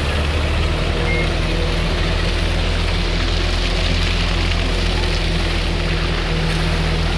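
Heavy diesel engine of a concrete mixer truck running steadily at a constant speed, a loud continuous drone.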